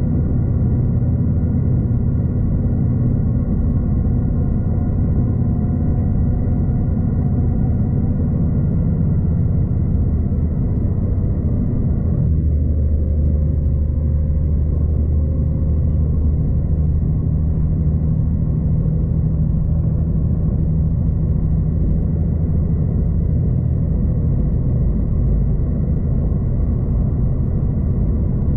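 A V/Line passenger train running along the line, heard from on board: a steady low rumble of wheels and running gear with a droning hum, which shifts to a lower, steadier note about twelve seconds in.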